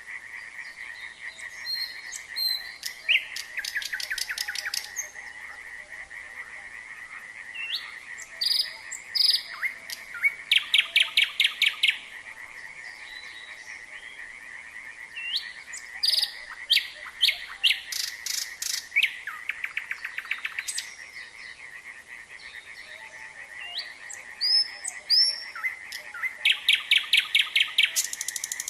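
Nightingale singing in separate phrases of rapid repeated notes and whistles, four bouts with pauses between, over a steady frog chorus that holds one high pitch throughout.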